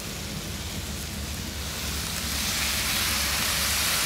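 Pork, onion and shishito peppers sizzling in a hot wok, the sizzle growing louder about two seconds in as soy sauce is poured into the pan.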